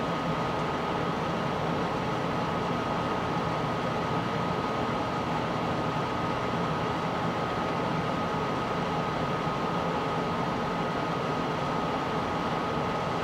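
Steady, unchanging hiss and hum with a faint constant high tone: machine-like background noise such as a running fan or air conditioner.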